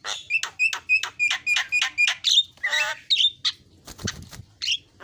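Javan myna (jalak kebo) singing: a rapid series of sharp repeated notes, about four a second, then a harsh rasping call about halfway through, followed by a few short whistled notes.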